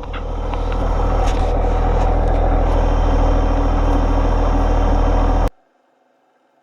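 John Deere 1025R compact tractor's three-cylinder diesel engine running steadily while driving, building slightly in the first second. The sound cuts off abruptly about five and a half seconds in, leaving silence.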